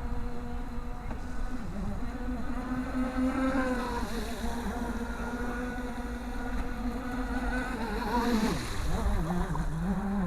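Radio-controlled model boat's motor running with a steady whine, its pitch dipping and climbing back twice. A low wind rumble lies under it.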